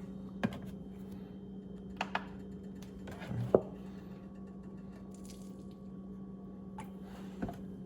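A few light clicks and knocks of a container being opened and handled on a kitchen counter as egg whites are measured out, over a steady low hum.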